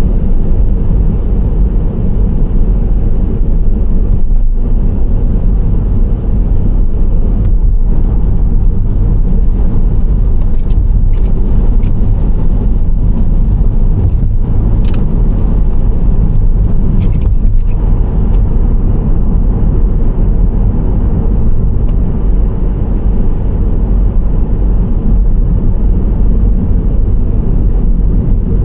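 Nissan Serena C25 minivan driving at a steady pace: continuous low road and engine rumble, with a few faint light ticks about halfway through.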